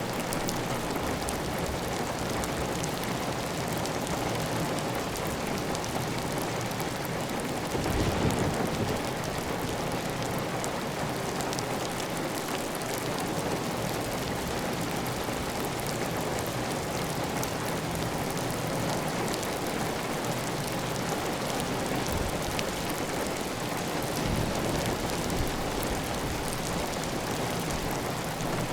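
Heavy rain drumming steadily on a clay tile roof, with water running off the roof edge. About eight seconds in there is a brief louder, deeper surge.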